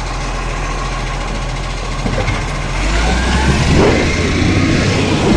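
Garbage truck's engine running steadily, then growing louder about halfway through with a faint rising whine.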